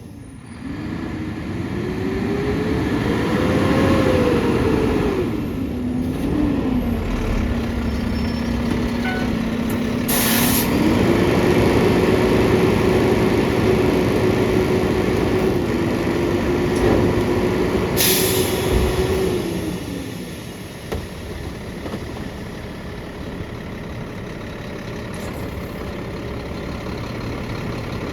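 Mack LR garbage truck with a McNeilus body packing a load: the engine's pitch rises and falls, settles low, then climbs and holds high for about eight seconds before dropping back, as revs go up to drive the packer hydraulics. Two short air hisses come partway through.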